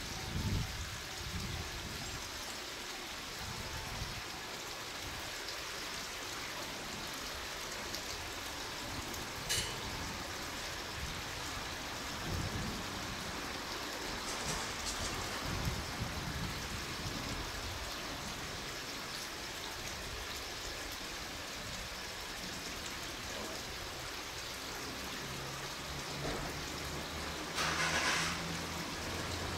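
Steady outdoor hiss of a rail yard. In the last few seconds the low hum of the slowly approaching HB-E300 hybrid diesel train's engine comes in, with a short burst of hiss just before the end.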